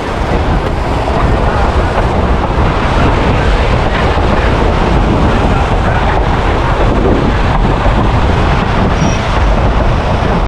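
Narrow-gauge passenger train running along the track: a steady loud rumble and rattle of the cars, with wind buffeting the microphone.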